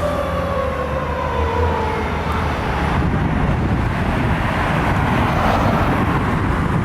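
Fire truck siren sliding down in pitch and fading over the first couple of seconds, over the deep rumble of the diesel engine. After that a steady rushing of engine and road noise as the apparatus goes by.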